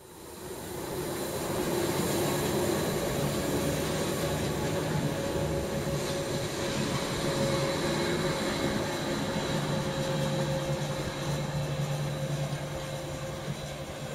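Gornergratbahn electric rack-railway train running by, a steady hum with a few held tones from its drive. It builds up over the first couple of seconds, then keeps on evenly.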